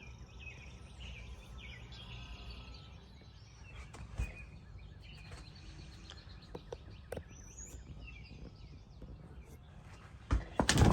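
Outdoor ambience of small birds chirping faintly over a steady low rumble, with a few light clicks. Near the end come a couple of loud knocks.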